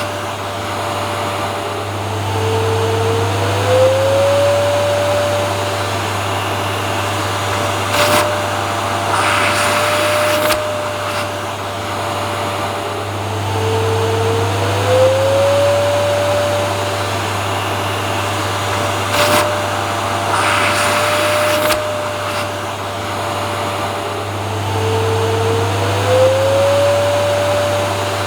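Vacuum cleaner running steadily: a rushing hiss over a motor whine and low hum. About every eleven seconds the whine dips in pitch and glides back up, followed by a brief click and a short surge of hiss, the same pattern repeating three times.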